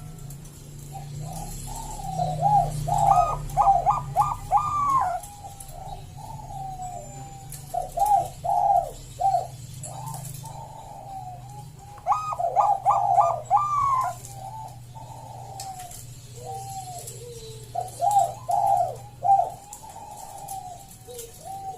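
Bangkok-type perkutut (zebra dove) cooing: four phrases of rapid stuttering notes rising and falling in pitch, each phrase about two seconds long and coming every four to five seconds. A low steady hum runs underneath.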